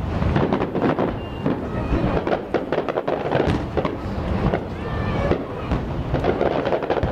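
Fireworks bursting and crackling in a dense run of sharp bangs, with voices of onlookers mixed in.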